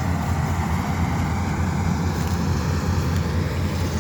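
Combine harvester running steadily under load while harvesting paddy, a constant low engine drone with machinery noise over it.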